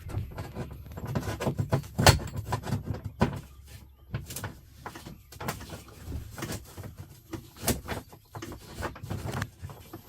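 Irregular knocks, clicks and rattles of hand-held metal hardware and tools being worked while fitting a bunk's wall mount and strap hardware.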